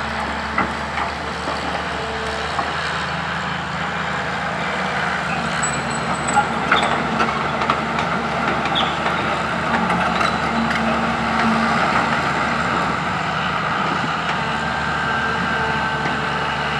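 Diesel engines of a Komatsu PC200 excavator and a ten-wheel dump truck running steadily, with a scattering of short knocks.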